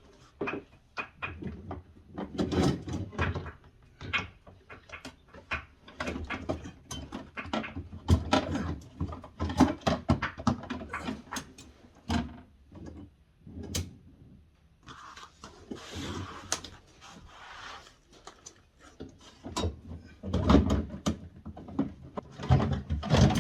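Refrigerator parts being handled and fitted back into place during reassembly: irregular clicks, knocks and plastic clatter, with a few seconds of scraping noise about fifteen seconds in.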